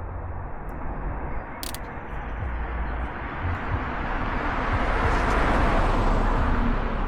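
Wind rumbling on an Insta360 X5's built-in microphones while riding an electric trike. A vehicle rush swells to a peak about five seconds in and fades again.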